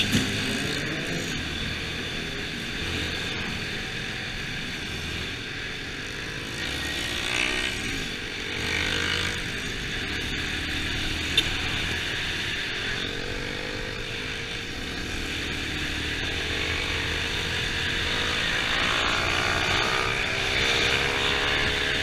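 Motorcycle engines running, their pitch rising and falling as they rev and ride past, with a single sharp tick about halfway through.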